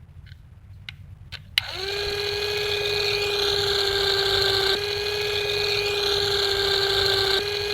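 A few light clicks, then a small electric motor switches on about a second and a half in, spins up quickly and runs at a steady high whine.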